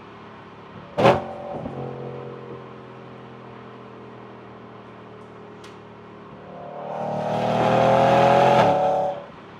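BMW E92 M3's V8 idling with a sharp throttle blip about a second in that falls back to idle. Near the end it revs up slowly, holds briefly, then cuts off suddenly back to idle.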